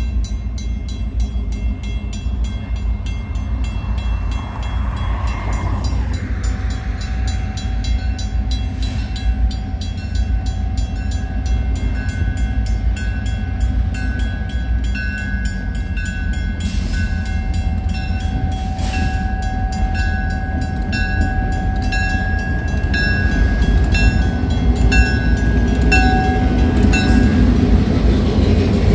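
CN freight train led by EMD GP38-2 diesel locomotive 7521 approaching a grade crossing: its horn sounds in long blasts from about six seconds in, over the steady ringing of the crossing bell. The locomotive's engine rumble and wheel noise grow louder near the end as it comes alongside.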